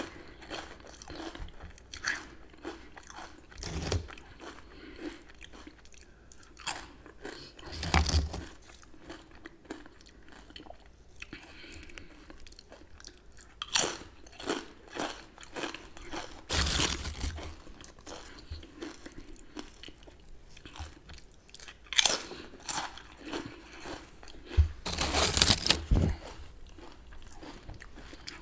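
Crunchy chips with dip being bitten and chewed close to the microphone. A loud crunch comes every few seconds, with a double crunch near the end, and quieter chewing runs between them.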